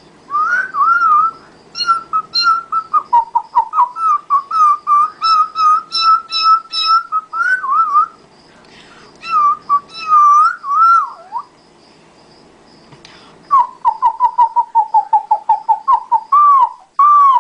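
A woman imitating birdsong with her mouth: high whistled warbles and runs of quick chirps, with a pause of about two seconds after the middle.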